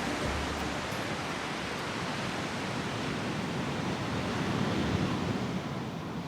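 Steady rush of sea surf with wind, swelling slightly about two thirds of the way through.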